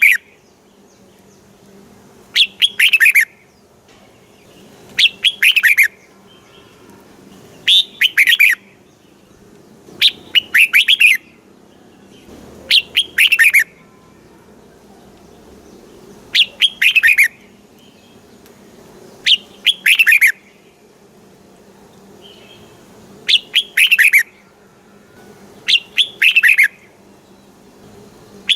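Red-whiskered bulbul singing: short bright phrases of quick falling notes, repeated about every two and a half to three seconds.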